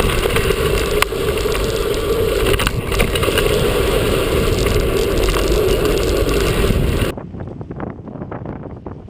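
Wind buffeting the microphone and a mountain bike's tyres rattling over a rough dirt trail at speed, with a few sharp knocks from bumps. About seven seconds in, the noise drops suddenly and turns duller and quieter.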